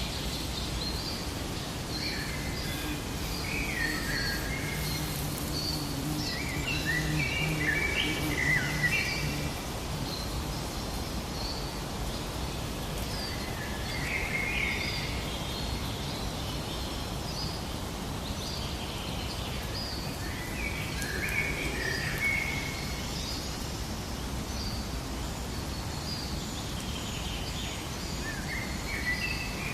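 Birds chirping and singing over a steady outdoor background hiss: short high chirps repeat throughout, and fuller warbling song phrases come in bursts, the strongest a few seconds in and again around the middle.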